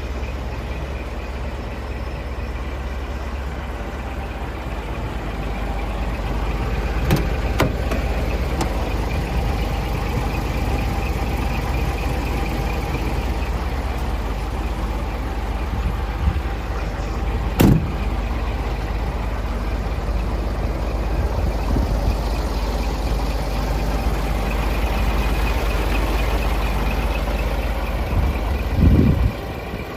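Scania R420's DC12 straight-six diesel idling steadily with a low rumble. A few sharp clicks come about seven seconds in and again near eighteen seconds, and a thud just before the end.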